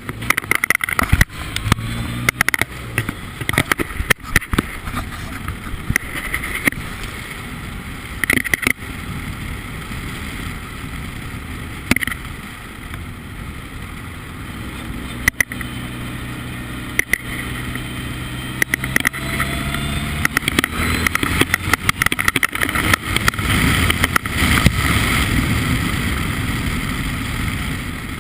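Formula Ford race car engine running hard on track, its pitch rising and falling as it accelerates and changes gear, with many sharp knocks and clicks throughout. It is loudest a little before the end.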